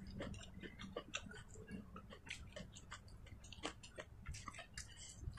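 A person eating with her fingers: quiet, irregular small clicks of chewing and of fingers picking at fish on a plate, several a second.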